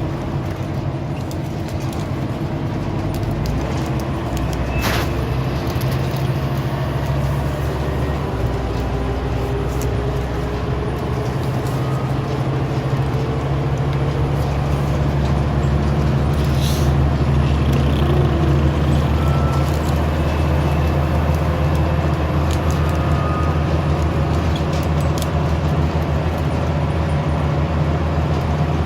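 Scania OmniCity single-deck bus's engine heard from inside the saloon while under way, a steady drone whose pitch shifts a few seconds in and again around eight seconds as it changes gear, growing gradually louder. A couple of sharp rattles or clicks sound over it, one early and one about halfway through.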